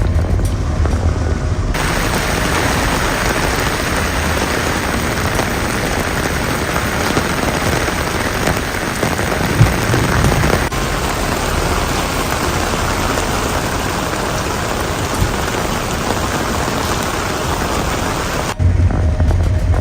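Heavy rain pouring down, a dense steady hiss, with one sudden sharp crack about ten seconds in. The rain starts about two seconds in and cuts off about a second before the end, giving way to a duller sound with a strong low hum.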